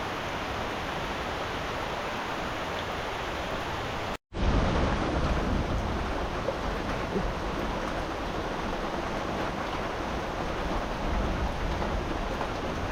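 Steady hiss of rain, with a low rumble underneath. A split-second dropout about four seconds in, after which the rumble is stronger.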